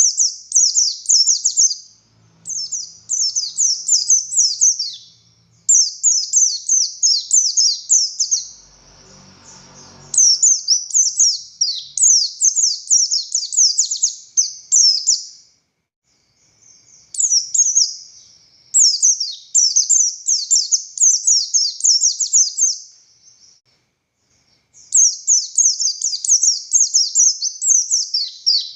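A buxtoni white-eye (pleci) singing loud, fast phrases of rapid, high, down-slurred notes, each phrase lasting a few seconds with short pauses between.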